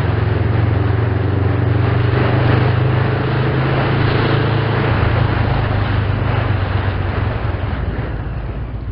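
A motor running steadily with a loud low hum and a hiss over it, easing off near the end.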